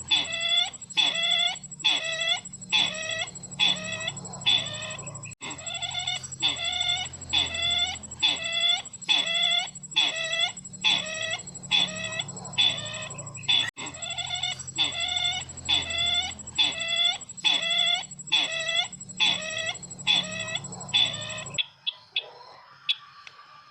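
Recorded lure call of the sisintar bird played back on a loop: a rapid series of short downward-slurred calls, about two a second, with a steady high electronic whine and a low hum from the player. The loop restarts twice, and the calls stop about twenty-two seconds in.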